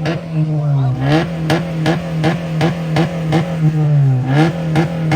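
Muscle car engine revved and held at high revs, pulsing in a steady rhythm about three times a second, its pitch dipping briefly and climbing back twice.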